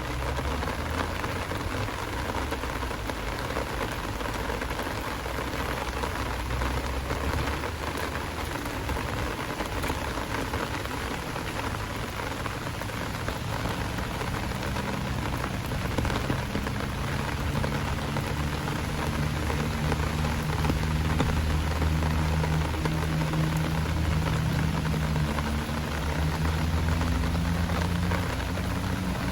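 Heavy rain falling steadily. From about halfway a low engine hum joins and grows a little louder, as a vehicle idles or approaches.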